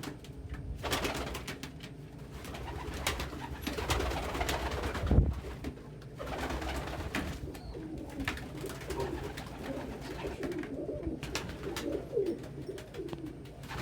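Domestic pigeons cooing, low wavering calls that keep up through the second half, with scattered clicks and rustling. A single loud thump about five seconds in.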